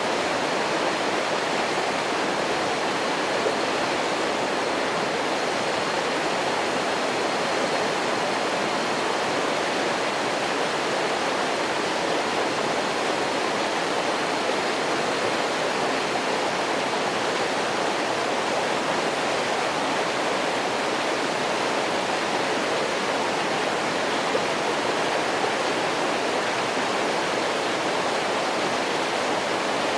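Waterfall: water falling in a steady, unbroken rush that does not change.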